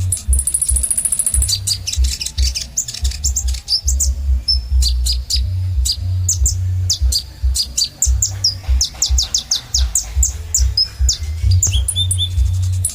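Kolibri ninja sunbird singing: rapid high chirps and sharp downward-sliding notes, with a buzzy high trill in the first second and fast strings of notes later on. A low rumble runs underneath.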